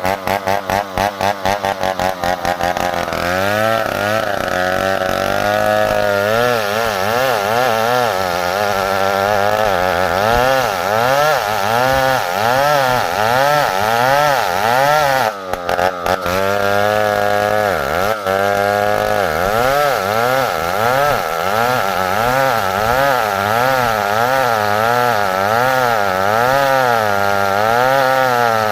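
Stihl chainsaw engine running slowly with even pulses for about three seconds, then held at high revs while cutting wood, its pitch wavering up and down about once a second, with a couple of brief dips near the middle.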